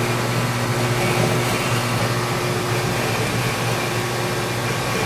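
Machine tool running a boring cut in a fiberglass tube: a steady motor hum under an even hiss of cutting.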